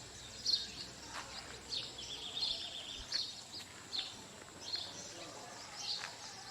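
Forest birds chirping: short, high chirps every half second to a second, with a brief rapid trill about two seconds in.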